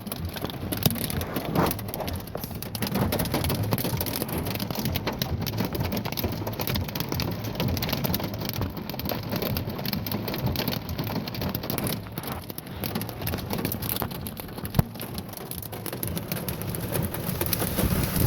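Pea-sized hail and heavy rain pelting a vehicle's roof and windshield: a dense, steady patter of sharp ticks, with one louder single hit about fifteen seconds in.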